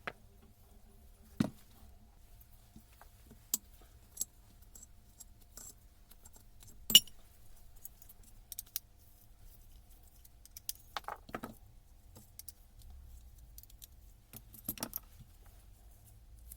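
Small metal parts and tools clinking and tapping as they are handled during a tool strip-down, in scattered single clicks with the sharpest clink about seven seconds in and quick runs of clinks near eleven and fifteen seconds.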